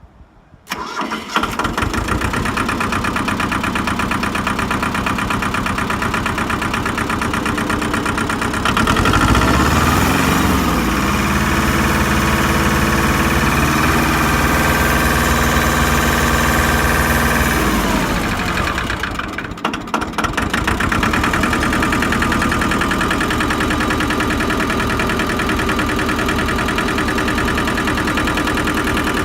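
Ford 1300 compact tractor engine starting about a second in and settling to a steady idle. It is revved up about nine seconds in, held at a higher speed for about eight seconds, then throttled back down to idle.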